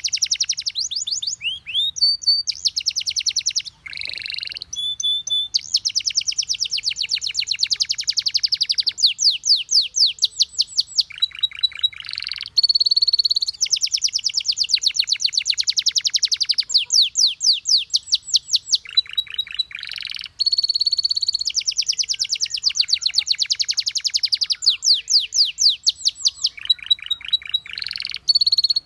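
Canary singing: long fast trills of rapidly repeated high notes in phrases broken by short pauses, with a few brief held whistled notes between them.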